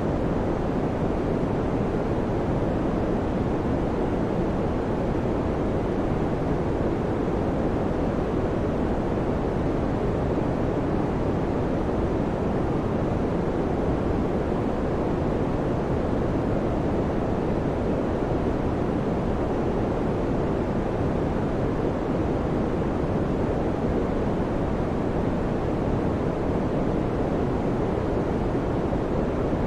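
Electric fan running steadily, a constant low, rushing whoosh with no hum, clicks or changes in speed.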